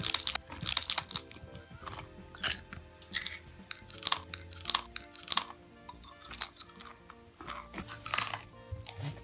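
Crisp potato chips being crunched while chewing, in many sharp, irregular crunches about one or two a second, over soft background music.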